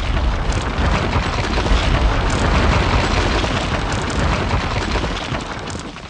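Loud explosion-like crashing and rumbling of a wall-smash intro sound effect, heavy in the bass, fading near the end.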